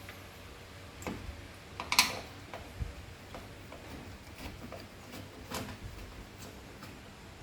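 Irregular light clicks and ticks from a Phillips screwdriver undoing the screws at the back of a washing machine's top cover, with one sharper click about two seconds in.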